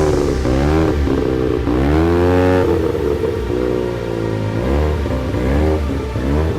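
Car engine revving repeatedly: several short blips and one longer rev about two seconds in, each rising in pitch and falling back.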